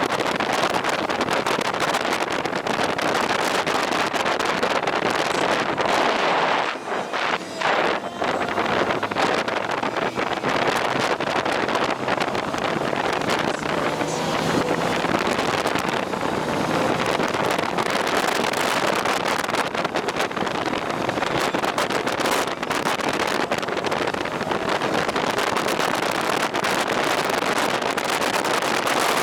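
Steady rush of wind buffeting the microphone on a moving motorcycle, dipping briefly about seven seconds in.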